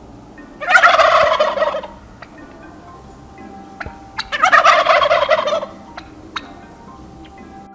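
Turkey gobbling twice, two rapid rattling calls of about a second each, some three seconds apart.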